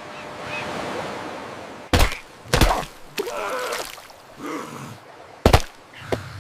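Edited sound effects: a hazy swell of noise, then three heavy thumps, about two seconds in, just after that, and near the end, with brief cry-like sounds between them.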